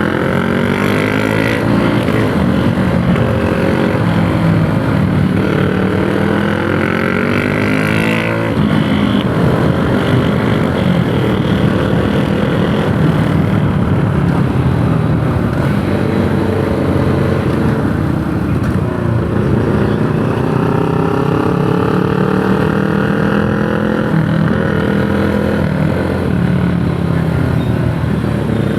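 Yamaha YTX 125's single-cylinder four-stroke engine pulling under way, its pitch climbing steadily and dropping abruptly at gear changes about eight seconds in and again near the end.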